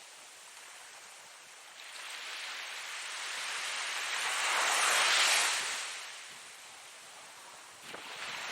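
Ocean waves breaking and washing up the shore: one wave swells to a peak about halfway through and fades away, and the next begins to break near the end.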